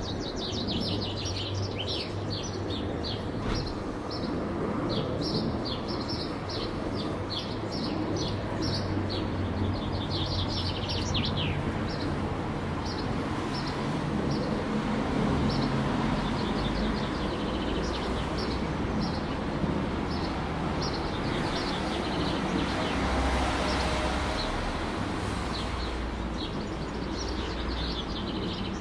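Small birds chirping in quick, repeated calls over a steady low rumble of city traffic. The chirping is dense for the first half and thins out later, while the rumble swells twice.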